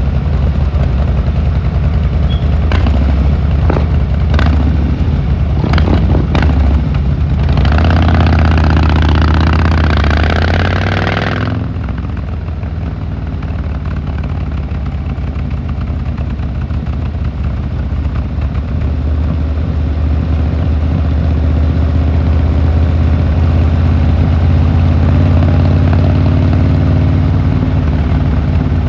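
Harley-Davidson Fat Boy Lo V-twin engine running steadily under way. A few clicks come between about 3 and 7 seconds in, and a loud rushing noise lasts about four seconds, about a third of the way in.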